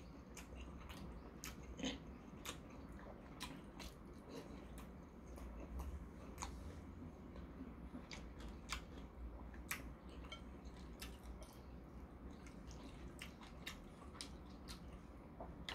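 Quiet chewing of a mouthful of udon noodles: soft, sharp mouth clicks at irregular intervals, about one or two a second, over a low steady hum.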